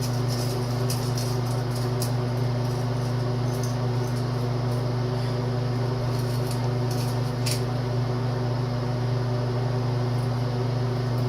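A steady low electrical or fan-type hum runs throughout at a constant level. Over it come a few faint light clicks as a wire jet cleaner probes the small jets of a lawnmower carburetor.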